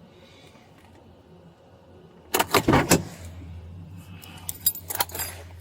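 Metallic jangling and rattling, loudest in a short burst about two seconds in, with a few sharper clicks about a second later. A low steady hum sets in with the first burst.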